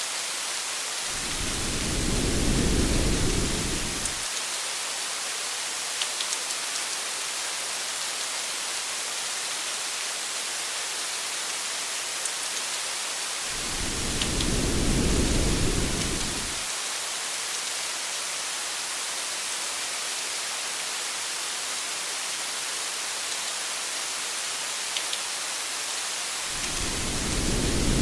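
Steady rain hiss with a few faint drop ticks, broken three times by a low rumble of thunder lasting about three seconds each, repeating at even intervals about twelve seconds apart.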